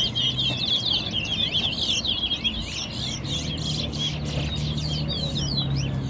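Caged towa-towa seed finches singing competition songs: fast, unbroken runs of high twittering, chirping notes, with a faint low steady hum joining about three seconds in.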